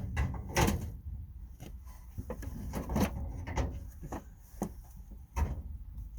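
Scattered clicks and knocks from a metal tool chest drawer and its slide rails being handled and adjusted. The sharpest knocks come about half a second, three seconds and five and a half seconds in.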